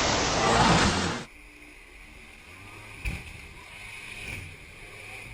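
A loud rushing noise of water and wind cuts off sharply about a second in. A faint boat scene follows, with a steady high whine over a low rumble and a single knock about three seconds in.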